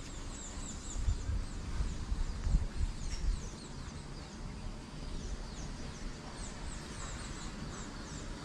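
Birds chirping: many short, high calls that sweep downward, repeating through the whole stretch. Under them runs a low, uneven rumble that swells in the first few seconds.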